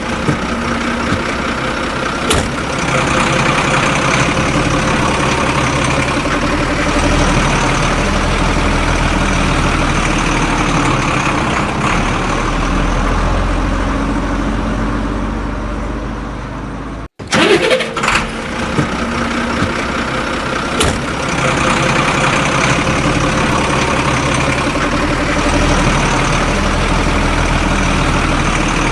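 A vehicle engine idling steadily. About 17 seconds in it cuts out for a moment, then starts again with a short start-up burst and runs on as before.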